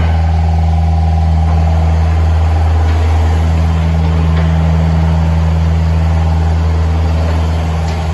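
Diesel engine of a John Deere 50G mini excavator running at a steady speed, a constant low hum with no change in pitch.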